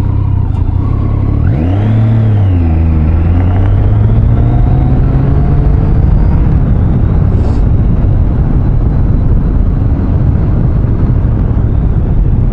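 Triumph Street Triple 660 motorcycle's three-cylinder engine revving up and back down about a second and a half in, then running steadily at road speed under heavy wind and road noise.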